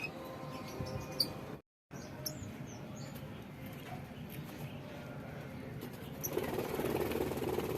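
Lovebirds giving scattered short, high squeaks and chirps over a steady low background, with a louder rustling stretch near the end.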